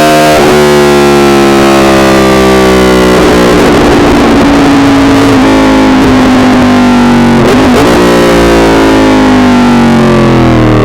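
Yamaha R1 inline-four engine heard from on the bike, loud and distorted, its pitch falling steadily as the revs drop, with brief breaks in the note near the start and about three quarters of the way through, as at gear changes.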